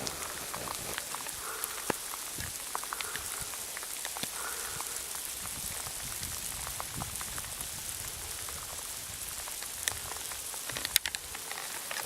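Rain falling, with many individual drops ticking sharply close to the microphone and a short cluster of louder taps about eleven seconds in.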